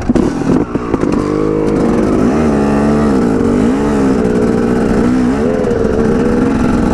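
Dirt bike engine running hard under throttle, its pitch dipping and climbing again a couple of times as the throttle is worked.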